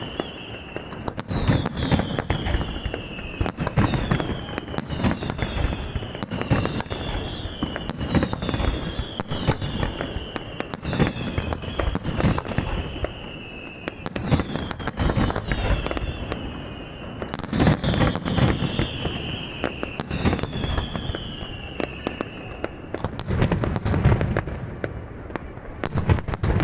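Professional aerial fireworks display: a steady barrage of booming bursts and crackles, with a whistle that falls in pitch about once a second.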